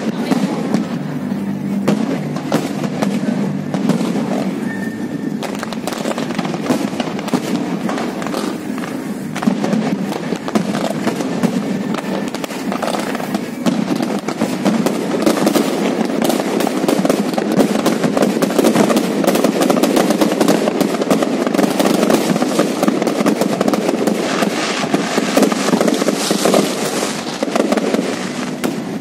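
Fireworks display: shells bursting and crackling in a rapid, continuous barrage that grows denser and louder from about halfway through, easing slightly near the end.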